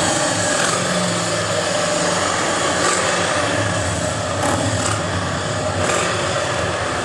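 Motorcycle engines idling close by, a steady low rumble, with the distant high-pitched engine of a Formula 1 car mixed in.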